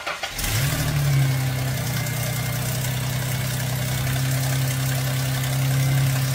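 2001 Ford Mustang's 3.8-litre V6 catching about half a second in, its revs flaring briefly, then settling into a steady idle. It runs smoothly on a fresh set of spark plug wires that replaced a melted one which had caused a misfire.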